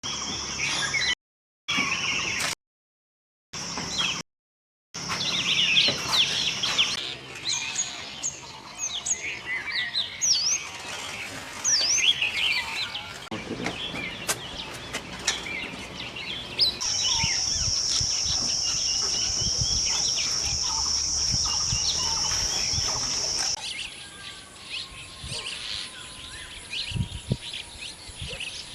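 Small birds chirping and calling: many short, quick high notes that slide up and down. The sound cuts in and out abruptly several times near the start, and partway through a steady high-pitched drone runs under the calls for several seconds before stopping suddenly.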